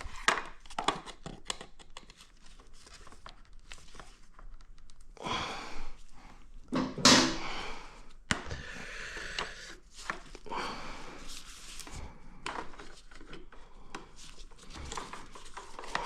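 Handling noise of someone working with long nose pliers at a plastic connector: scattered clicks, taps and scrapes, with a louder rustle about seven seconds in.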